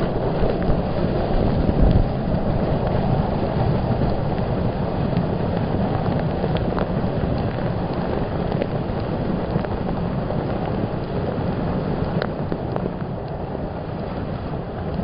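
Steady rushing noise of water and wind buffeting a phone's microphone, as on a water slide ride.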